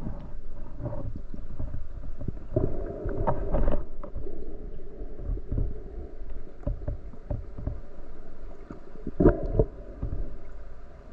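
Water movement with irregular knocks and bumps over a low rumble; the loudest knocks come about three and a half seconds in and again about nine seconds in.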